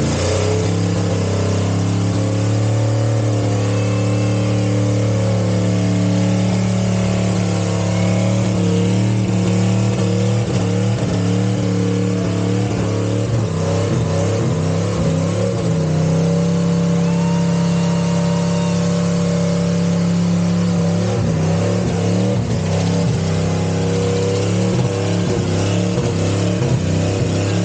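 Truck engine held at high revs during a burnout, a loud steady note with a few small changes in pitch along the way.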